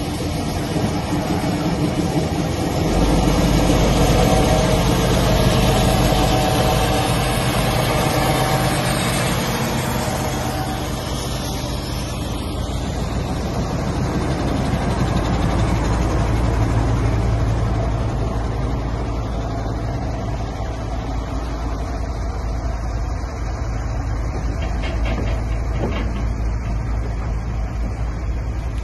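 Two British Rail Class 03 diesel shunters, Gardner eight-cylinder engines, working hard under load to move a heavy train. The engine sound swells about three seconds in, eases off, then builds again near the middle.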